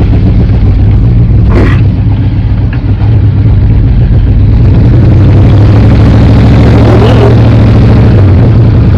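1977 Ford pickup's engine running steadily and smoothly through its factory exhaust while the truck is eased along at low speed.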